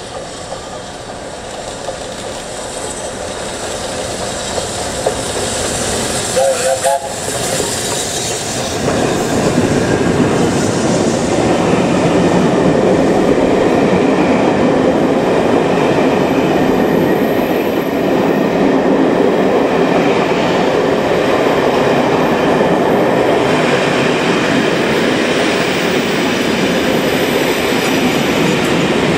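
Steam-hauled train approaching and passing close by, growing louder over the first nine seconds and then a steady loud rumble and clatter of wheels on rail. A brief whistle sounds about seven seconds in.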